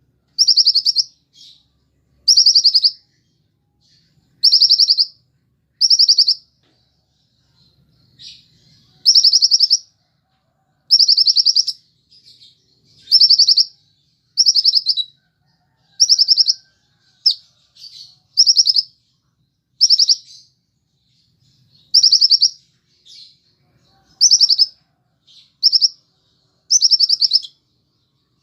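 Konin bird singing, a recording used as a lure to set caged konin singing: short, high, buzzy trilled notes repeated every second or two.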